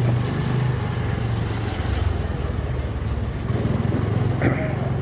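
Steady low hum of a running vehicle engine amid traffic noise, with a brief sharp sound and short tone about four and a half seconds in.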